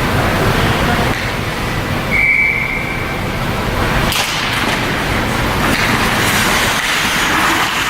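Busy game-day noise from the stands, with one short, steady whistle blast, typical of a referee's whistle, about two seconds in, and a sharp crack about four seconds in.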